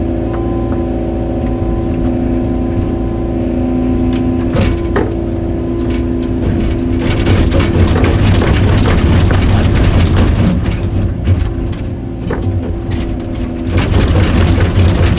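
Excavator diesel engine running steadily, then working harder while a dense crackling and crunching sets in about halfway through as tree roots are torn out of the ground. The crunching eases briefly and returns near the end.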